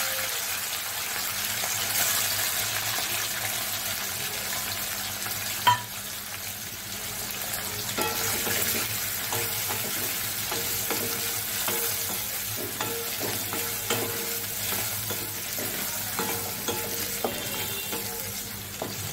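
Prawns sizzling as they fry in hot mustard oil in a metal kadai. A wooden spatula scrapes and taps the pan repeatedly from about eight seconds in. There is one sharp knock about six seconds in.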